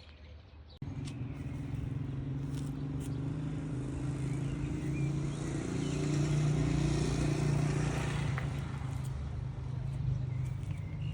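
A motor runs steadily with a low hum that swells and shifts slightly in pitch about halfway through. It starts abruptly about a second in.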